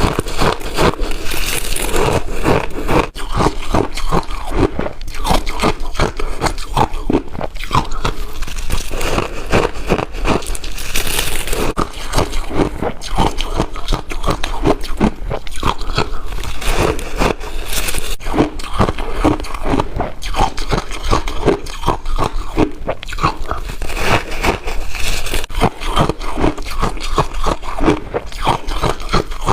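Ice being bitten and chewed close to the microphone: a rapid, unbroken run of sharp crunches and cracks.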